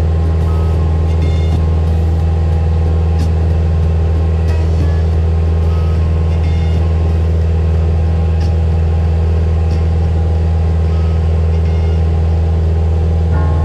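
Cessna 172S Skyhawk's four-cylinder Lycoming engine and propeller droning steadily in flight, with a constant low hum and a few faint ticks.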